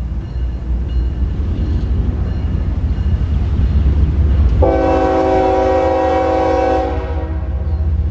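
Locomotive air horn sounding one long blast of a bit over two seconds, starting about halfway through, over a steady low rumble of the train.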